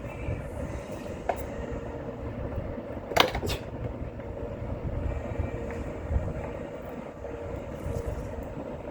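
Hand tools working a stubborn engine bracket bolt loose: a few sharp metallic clicks and knocks, the loudest pair about three seconds in, over a steady low rumble and hum.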